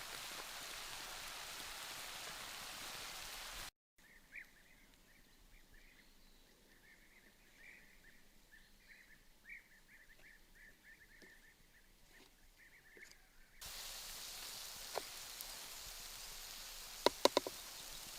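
Steady hissing noise that cuts off abruptly, followed by a quieter stretch with faint, irregular short high chirps; the hiss then returns with a few sharp clicks near the end.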